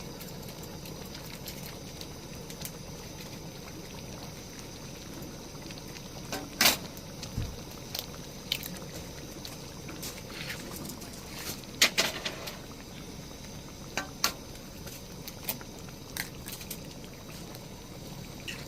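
A pot of liquid boiling with a steady bubbling hiss, broken by a few sharp clicks and knocks.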